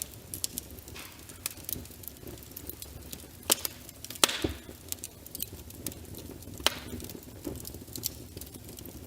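Wood fire in a fireplace crackling, with a steady low rumble of flame and irregular sharp pops, the loudest about four seconds in.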